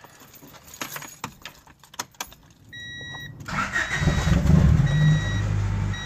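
Keys jangling and clicking, then an electronic chime beeps, and about three and a half seconds in the Honda Prelude's four-cylinder engine cranks and starts, running loud through an open exhaust while the chime keeps beeping.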